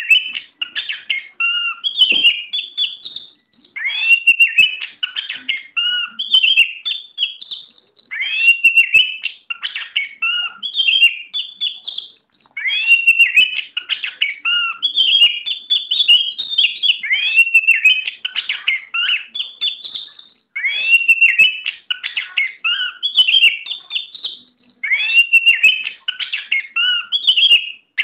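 Oriental magpie-robin (kacer) singing: loud, varied whistled phrases of rising, falling and warbled notes, coming in stretches of several seconds broken by short pauses.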